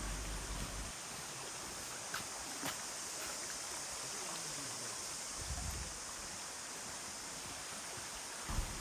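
Steady outdoor background hiss of a forest trail, with a brief low rumble about five and a half seconds in.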